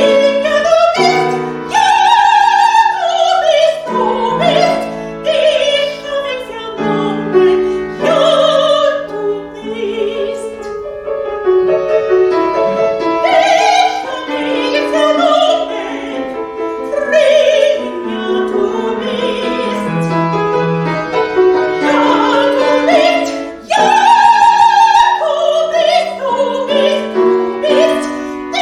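A classical soprano singing with vibrato over piano accompaniment, in the style of an art song or opera aria.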